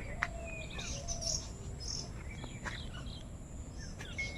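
Birds chirping: scattered short calls and brief whistled notes, with a single sharp click shortly after the start.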